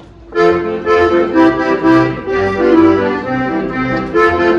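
Accordion starts about a third of a second in and plays a lively chastushka tune, with a regular bass under the melody: the introduction before the chastushki are sung.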